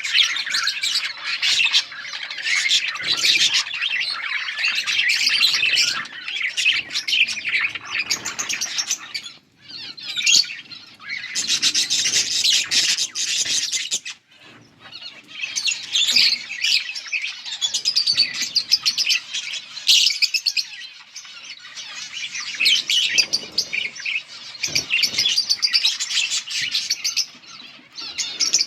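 Several budgerigars chirping and warbling in a dense, fast chatter, with a couple of brief lulls.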